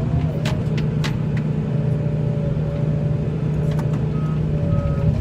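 Tractor engine running steadily under load, with a few sharp clicks and knocks.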